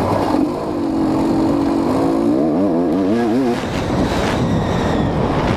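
GasGas EC 250 two-stroke single-cylinder dirt bike engine running at steady revs, then its pitch rising and falling quickly several times for about a second before settling into rougher running.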